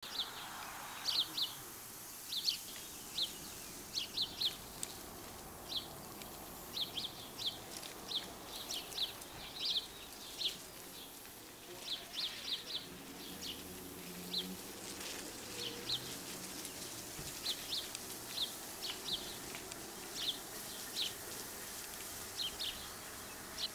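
Small birds chirping: short, high calls, often two or three in quick succession, repeating irregularly over a faint steady background hiss.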